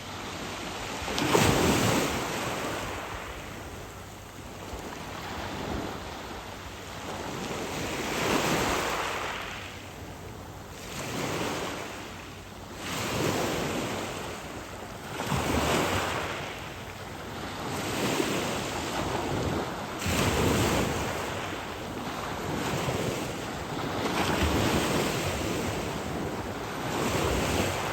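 Wind and small waves at the shoreline: a rushing noise that swells and fades every two to three seconds, loudest about a second and a half in. Wind buffets the microphone.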